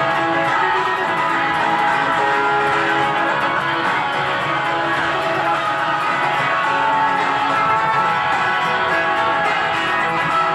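Guitar strummed steadily in an instrumental passage of a song, with no singing.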